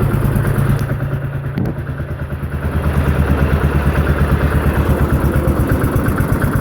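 Lawnflite 604 lawn tractor's engine running as it drives. The engine note sags and quietens about a second in, then comes back to a steady, even beat.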